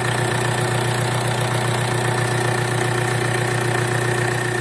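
Mitsubishi L200's 4D56 four-cylinder diesel idling steadily with its balance-shaft drive belt removed. Run this way it is smooth, with none of the knocking that the owners trace to the right-hand balance shaft.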